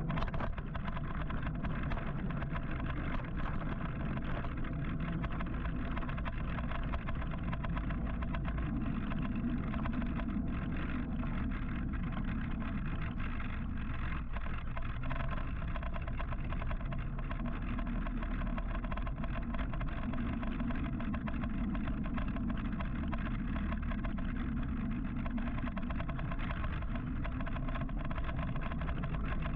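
Steady city traffic and road noise with a low wind rumble, heard from a moving electric motorcycle.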